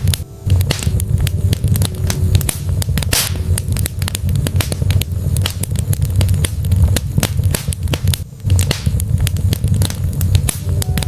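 Wood fire burning in a fireplace, crackling with frequent sharp pops over a steady low rumble of flame. It briefly lulls twice.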